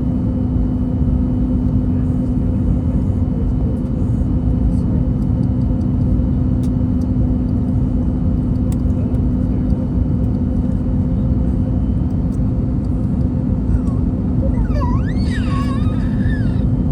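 Airbus A321neo cabin noise in flight: a steady low rumble with a constant hum. Near the end a small child's brief wavering cry rises over it.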